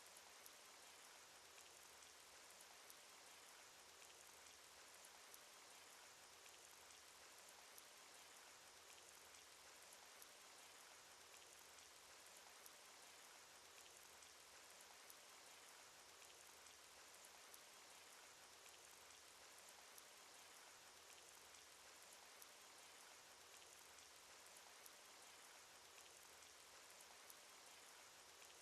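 Faint, steady rain from a cartoon sound effect: an even hiss dotted with many small drop ticks.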